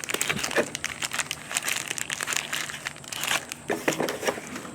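Packaging crinkling and rustling as it is handled: many irregular small crackles while the items are unpacked from the box.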